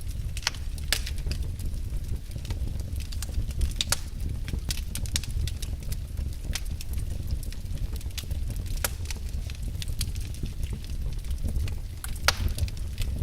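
Wood fire in a fireplace crackling and popping at irregular intervals over a steady low rumble, with one sharper pop near the end.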